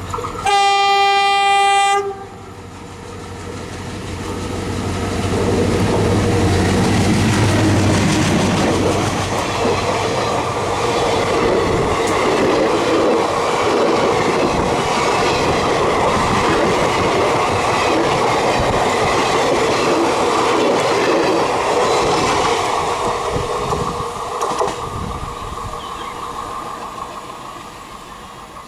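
An ALCo diesel locomotive sounds one loud horn blast of about a second and a half, then passes with its engine rumbling and the train's wheels clattering over rail joints. The noise builds over several seconds, holds, and fades near the end as the train moves away.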